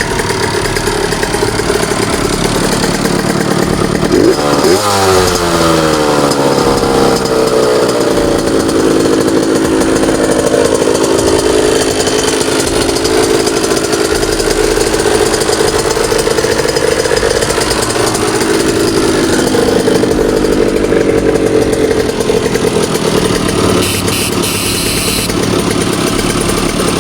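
Rieju RV motorcycle engine running under way. About four seconds in it revs up, then holds a steady, higher engine speed. The bike is being ridden to free clutch plates that have stuck together.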